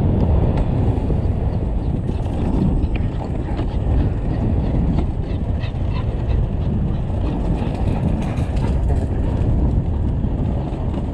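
Riding noise on a helmet-mounted camera as an electric dirt bike moves along a dirt trail: steady low rumble of wind buffeting the microphone and tyres rolling, with scattered small ticks.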